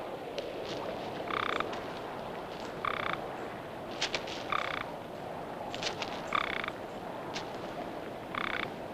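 Frog or toad calls: five short, buzzy chirps, one every second and a half to two seconds, over a steady background hiss.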